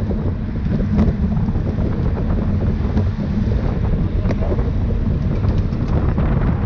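Wind buffeting the microphone of a camera on a moving bicycle: a steady, loud, low rumble with a few scattered small clicks.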